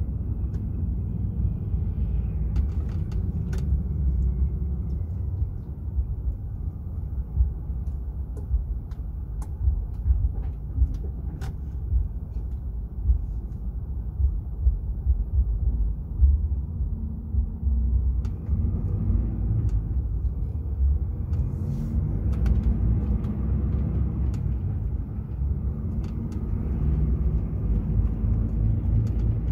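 Steady low rumble of a DAF XF 480 truck under way, engine and road noise, with scattered light clicks and knocks.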